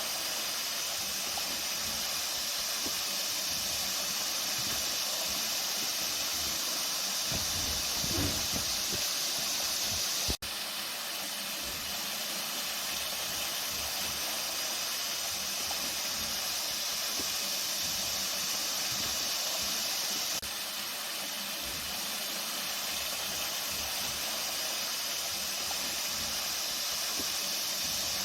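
Flowing water rushing steadily with an even hiss, cut off for a split second about ten seconds in.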